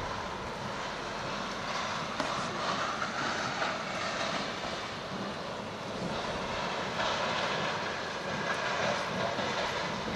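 A steady rushing noise with no clear pitch and no sharp bangs, at a fairly even level throughout.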